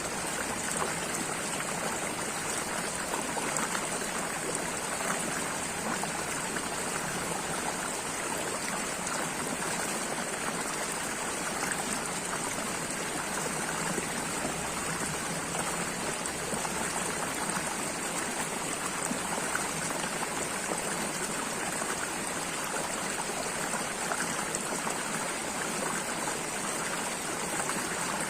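Running water with a fine, steady splashing texture, like a stream flowing over stones; it holds constant with no pauses.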